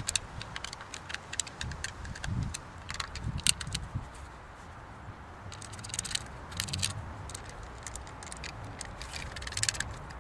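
Irregular clicks, taps and light rattling of small hard objects being handled, with a few soft low thuds in between.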